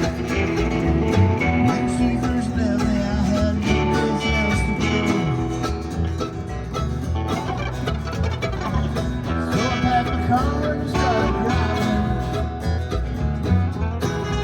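Live country band playing an instrumental passage: strummed acoustic guitar and a steady bass under a picked string melody with some bending notes.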